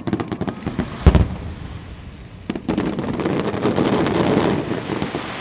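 Aerial fireworks: a rapid run of sharp cracks, a heavy boom about a second in, then from about two and a half seconds a dense crackle of many small bursts that builds and then eases near the end.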